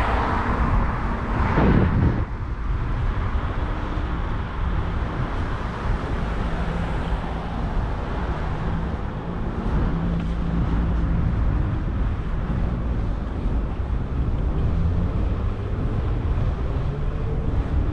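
Street noise heard from a moving bicycle: a steady low rumble of wind on the microphone and road noise, with city traffic around it. A vehicle passes close and loud about two seconds in.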